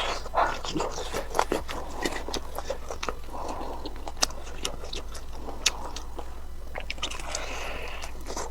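Close-miked eating: biting and chewing food, with many short crisp clicks and wet mouth noises.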